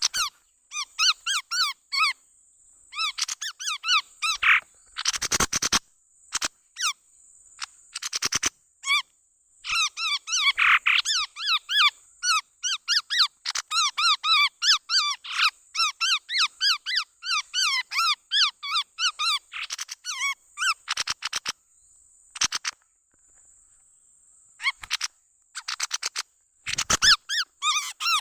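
Chestnut-rumped babbler lure call: rapid runs of short, squeaky chirping notes in phrases of a few seconds, with short pauses between them. A steady high whine runs underneath, and a few sharp crackling bursts break in.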